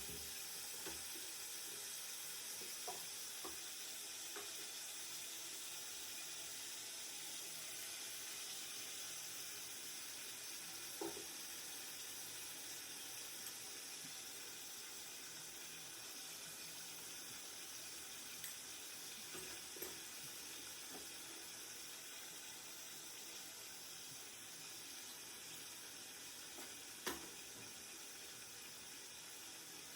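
Mutton curry cooking in a pan with a steady sizzle, with a few sharp knocks from a spatula against the pan, the loudest near the end.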